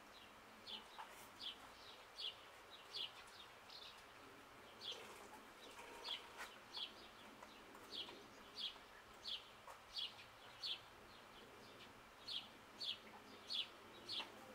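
A small bird calling faintly outdoors: a steady run of short, high chirps, each a quick falling note, repeating about one and a half times a second, with brief pauses about four seconds in and again about eleven seconds in.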